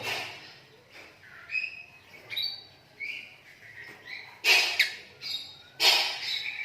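Lovebirds chirping: short rising and falling chirps for the first few seconds, then loud harsh squawks from about four and a half seconds in.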